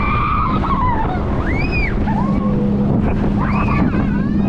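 Wind and rushing water over a steady drone from the tow boat's engine while a banana boat is pulled at speed. Riders let out several short whoops and squeals that rise and fall in pitch.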